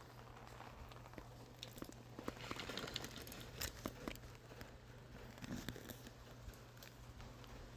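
Light rain, with scattered drops ticking and crackling irregularly on surfaces, over a steady low hum.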